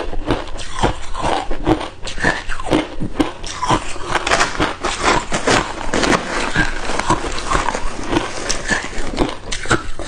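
Hard ice cubes being bitten and chewed close to the microphone: an unbroken run of sharp crunches and cracks, several a second.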